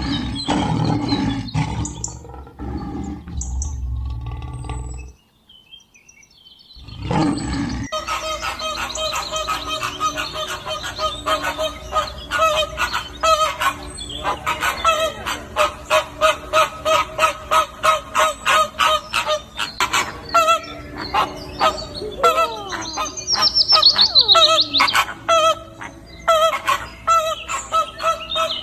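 Birds calling in a long, fast run of repeated chirps, with a few falling whistles, after a different, lower sound stops and a brief pause a few seconds in.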